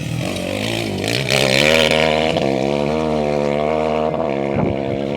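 A rally vehicle's engine accelerating: its pitch climbs over the first second or so, then holds at high revs, loudest a little under two seconds in.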